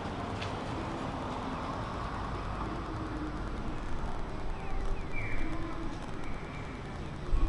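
Street ambience: steady traffic noise that grows louder about halfway through as vehicles pass, with a sharp click near the start and a few short high chirps.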